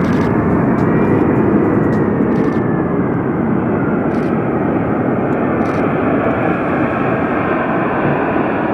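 Jet airliner engines, a loud steady roar with a faint whine that slowly falls in pitch.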